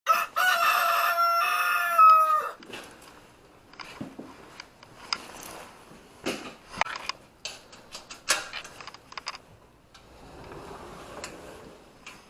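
Rooster crowing once, a loud drawn-out call that holds its pitch and drops at the end. Scattered quieter clicks and knocks follow.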